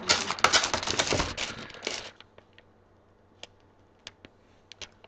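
Plastic snack bags crinkling as they are handled for about two seconds, then a few scattered small clicks and ticks.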